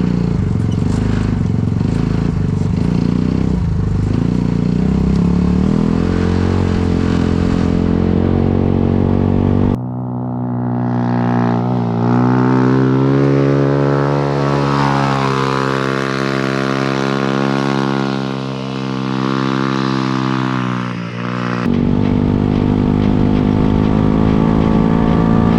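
Polaris RZR 200 youth UTV's small single-cylinder engine running hard, its pitch rising and falling as it accelerates and eases off. About ten seconds in the sound switches abruptly to a cleaner engine note that climbs and dips, then switches back to the rougher sound a few seconds before the end.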